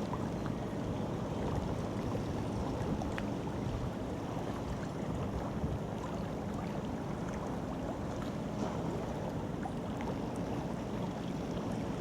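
Steady low rumble of a passing ship, with a faint hum and water and wind noise.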